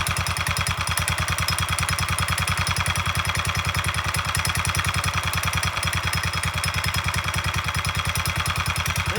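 Predator 301cc single-cylinder four-stroke engine idling steadily, its exhaust pulses fast and even.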